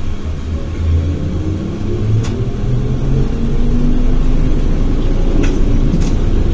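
ZiU-682 trolleybus accelerating, heard from inside: its traction motor's whine rises in pitch over a low rumble of the running gear, getting louder, with a few sharp clicks.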